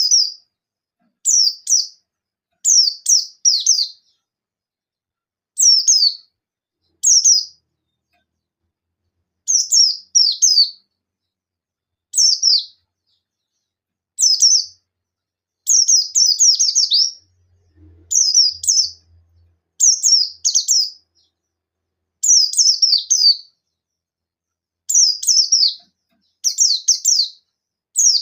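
Buxtoni white-eye (pleci) calling in short bursts of high, quick, downward-sliding chirps: one note or a fast run of several, every second or two with brief pauses. These are the rapid 'nembak' calls of a bird in full voice, which keepers use to provoke rival white-eyes into singing.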